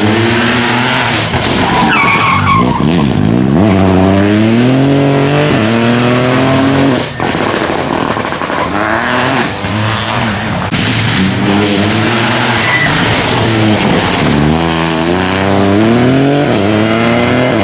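Rally cars at full throttle, the engine note climbing again and again through upshifts, with a brief tyre squeal about two seconds in. The engine drops away for a moment about seven seconds in, then climbs through the gears again.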